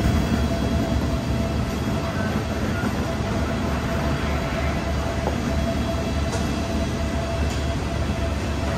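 Steady low rumble of a diesel train running, with a faint steady whine above it.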